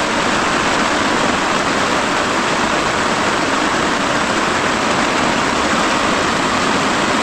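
Heavy rain pouring down, a steady, loud hiss with no letting up.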